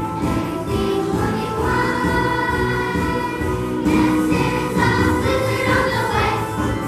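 A choir singing, many voices holding sustained notes together.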